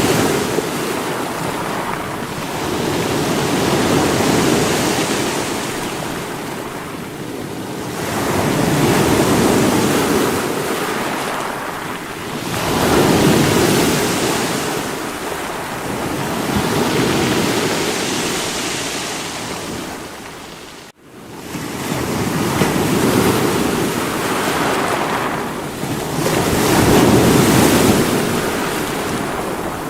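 Sea waves breaking against rocks, a continuous rushing surf that swells and ebbs about every four to five seconds. About two thirds of the way through the sound cuts out for an instant and comes straight back.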